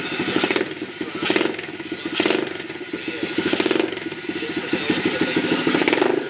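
Stomp 120 cc pit bike's single-cylinder four-stroke engine running, its throttle blipped in short repeated revs about once a second.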